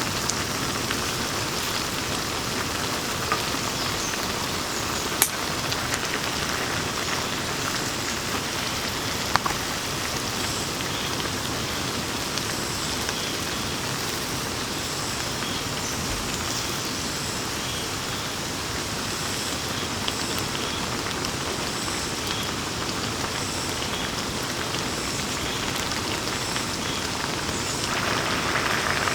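Steady rain falling, with a few sharper drop impacts now and then; it grows heavier near the end.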